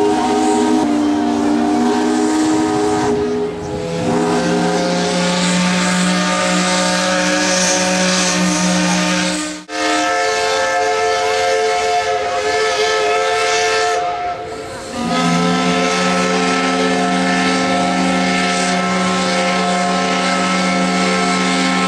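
Several steamship steam whistles blowing together in a long, steady chord over a hiss of steam. All of them break off briefly about ten seconds in. The deepest whistle then stays silent for about five seconds before it sounds again.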